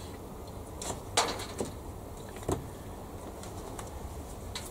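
A few small clicks and taps of plastic kit parts and sprues being handled on a workbench, over a low steady hum.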